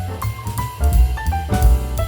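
Upbeat background music with a drum kit beat, a bass line and a stepping melody.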